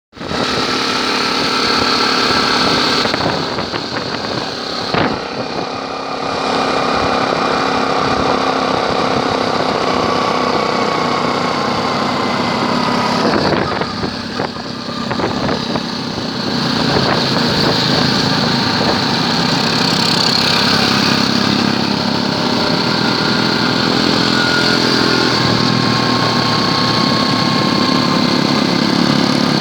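Honda Cub motorcycle's small single-cylinder four-stroke engine running steadily, its pitch shifting now and then, over a constant hiss.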